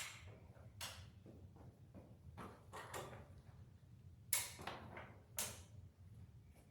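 A series of five or six sharp knocks and clanks, some with a brief rattle after them, over a faint low steady rumble.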